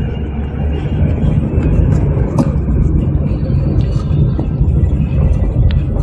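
Chevrolet Monza SL/E running, a steady low rumble of engine and car noise with a few faint clicks; the engine has just had its camshaft, rockers and hydraulic lifters replaced, which cured a top-end valvetrain noise.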